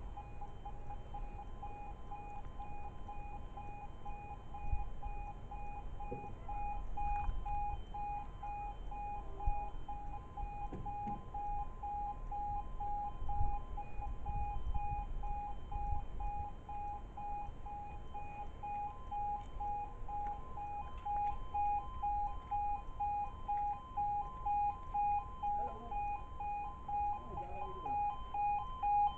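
Level crossing warning alarm sounding continuously: a rapidly warbling electronic two-tone alarm over a low rumble. Near the end it turns into a louder, regular pulsing.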